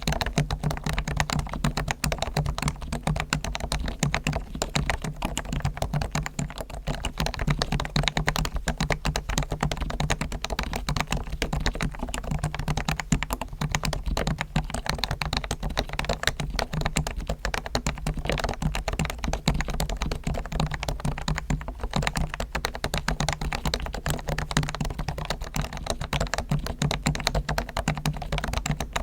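Continuous fast typing on a Realforce R1 Topre electrocapacitive keyboard whose sliders, springs and stabilizers are fully lubed and whose case is dampened, giving a steady stream of keystrokes.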